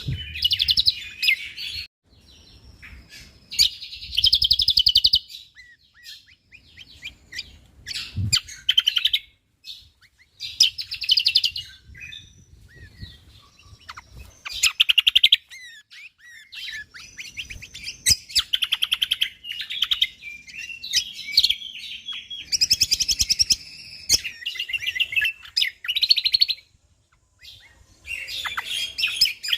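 Cucak kombok (kecial kombok) singing in rapid, dense bursts of chattering phrases, each a second or two long, with short pauses between them.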